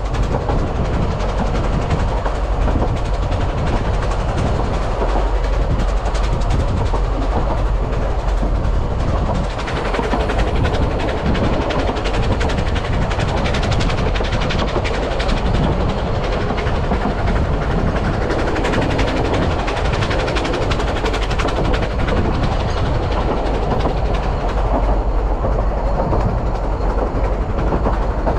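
Narrow-gauge steam railway carriages running along the track, heard from an open-sided carriage: a steady loud rolling rumble with a dense fast rattle of wheels on the rails.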